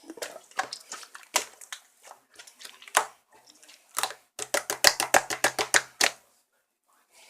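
Translucent slime being pressed and stretched by hand, trapped air popping in sharp clicks and crackles; scattered pops at first, then a fast run of about ten clicks a second for a couple of seconds before it goes quiet.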